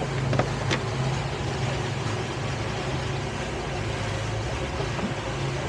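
Towboat's engine running steadily under way, a low even hum with a hiss of wind and water over it, and a couple of faint clicks about half a second in.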